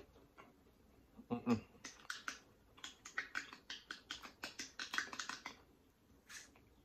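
Close-miked chewing of crispy breaded fried food: a dull thump about a second and a half in, then a quick run of sharp crunches that stops near the end.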